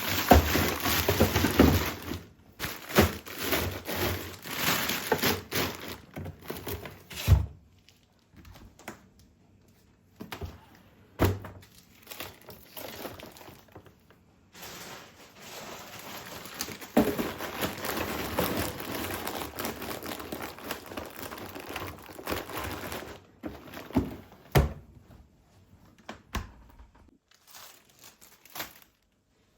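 Handling sounds: irregular rustling and scraping, with several sharp knocks of objects being set down.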